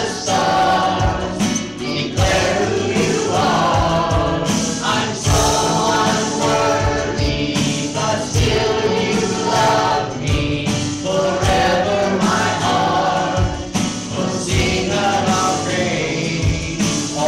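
Congregation and worship band singing a contemporary Christian worship song, many voices together over instrumental accompaniment.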